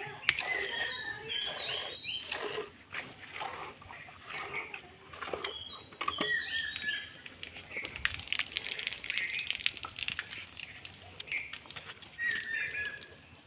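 Birds chirping over and over in short calls that fall in pitch, with a patch of rustling and clicking about eight to ten seconds in.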